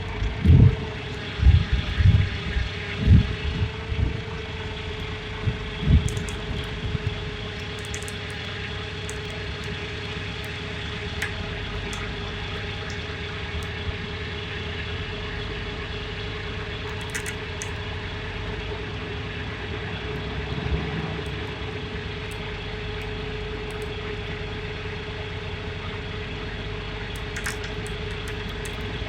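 Heavy-duty wrecker's engine running steadily, with a constant hum throughout and a few low thumps in the first few seconds.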